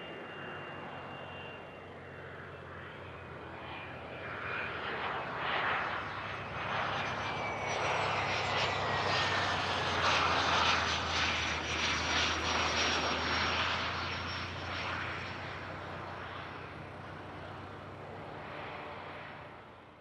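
A jet aircraft passing close by. Its engine noise swells to a peak about halfway through and then fades, while a high whine slides down in pitch as it goes past.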